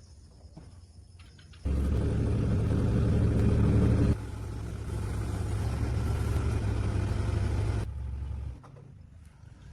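An engine running steadily, starting abruptly about a second and a half in, dropping in level at about four seconds, and dying away near the end.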